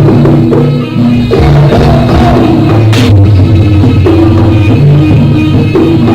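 Live jaranan music from a Javanese gamelan ensemble: drums and percussion over sustained metallophone and gong-chime tones. There is a short drop about a second in and a single sharp crack about three seconds in.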